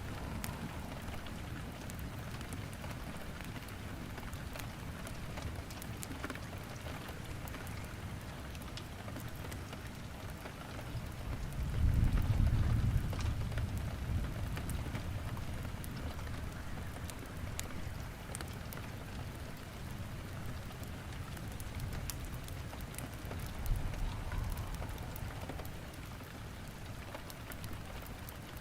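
Steady rain falling, with fine crackles from wood burning in a fireplace. A low rumble swells for about two seconds near the middle.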